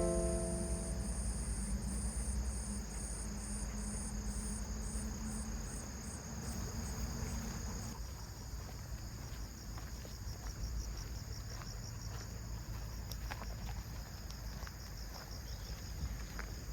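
Insects chirping in high, evenly repeated pulses, about three a second, over a low rumble.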